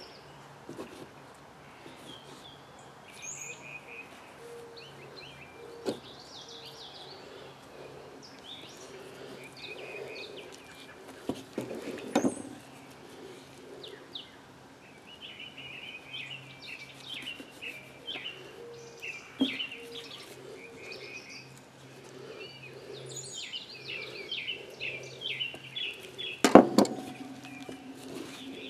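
Wild birds singing and chirping, short repeated notes throughout, with a few sharp knocks from handling on the work surface, the loudest near the end.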